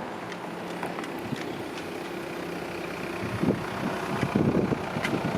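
A motor vehicle engine running steadily against outdoor background noise, with irregular low bumps near the end.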